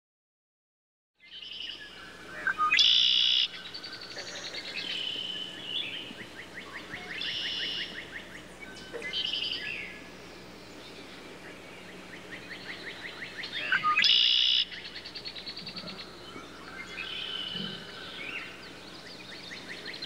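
Birds singing, starting about a second in: a loud song phrase recurs every few seconds over softer, rapid trills.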